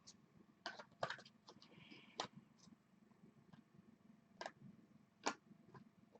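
Faint, sharp clicks and taps at irregular intervals, a cluster of several about a second in and single ones further on, over near silence.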